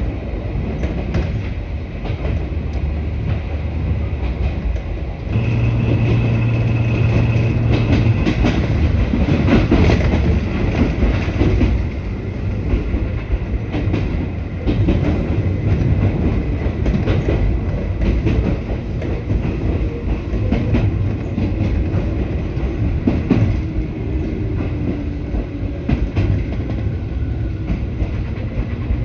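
Electric train running on the track: a continuous rumble with scattered knocks from the wheels and rails. A steady hum with a high tone joins for a couple of seconds about five seconds in.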